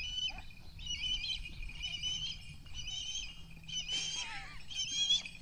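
A bird calling in short runs of high chirping notes, repeated about once a second; about four seconds in, one call slides down in pitch.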